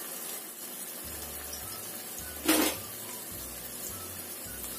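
Ground spice paste sizzling quietly in hot oil in a wok, with one short sharp sound about two and a half seconds in.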